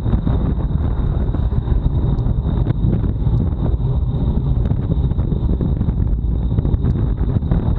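Wind buffeting the microphone of an action camera on a bicycle at race speed, a steady low rumble with road noise underneath, and a faint steady high whine throughout.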